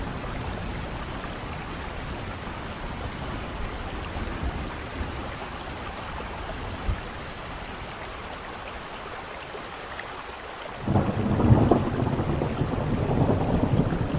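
Steady rain falling, with a deep roll of thunder swelling up about eleven seconds in and rumbling on to the end.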